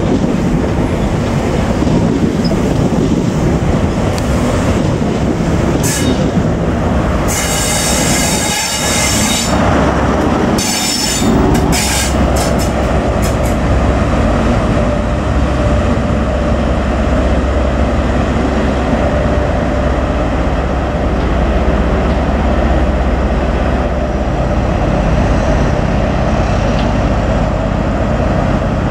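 A train moving close by on the tracks, its wheels squealing in several sharp bursts between about six and thirteen seconds in, then a steady low rumble.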